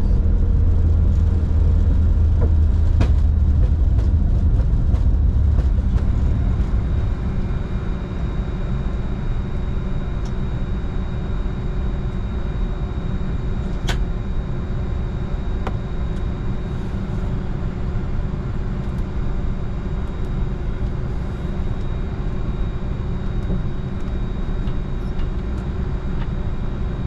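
Steady low rumble and hum of a Bombardier Challenger 605 business jet heard from inside the cockpit. It eases down a little about seven seconds in, then holds steady with a constant humming tone, with a single sharp click about fourteen seconds in.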